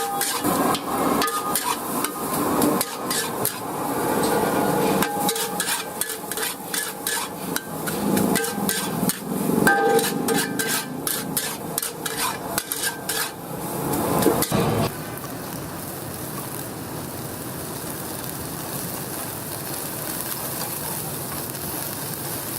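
Metal spatula clanking and scraping rapidly against a wok while stir-frying, over the sizzle of food in hot oil. About fifteen seconds in the clanking stops, leaving only a steady sizzling hiss.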